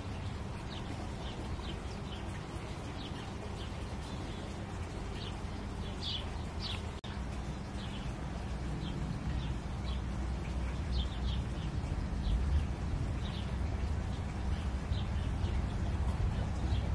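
Small birds chirping, short high calls scattered throughout, over a steady low rumble that grows louder in the second half.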